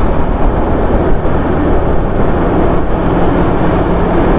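Steady road noise from a moving motorcycle: wind rushing over the microphone and the engine running underneath.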